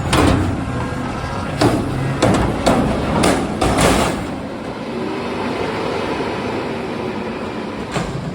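Garbage truck at work, its engine running under a series of loud metallic bangs and clatter over the first four seconds. This gives way to a steadier rumble, with one more bang near the end.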